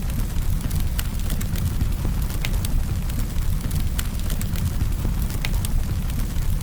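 Campfire crackling: frequent sharp snaps and pops, several a second, over a steady low rumble of the burning fire.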